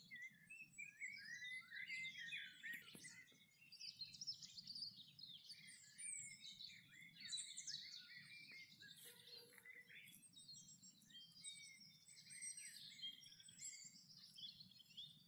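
Several small birds chirping and twittering almost continuously, faint, over a low steady background rumble.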